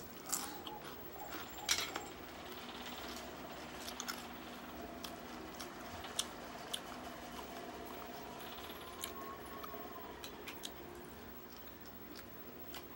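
Close eating sounds: chewing, with scattered sharp crunchy clicks, the loudest near the start, as crispy fried boneless danggit (dried rabbitfish), scrambled egg and rice are eaten by hand.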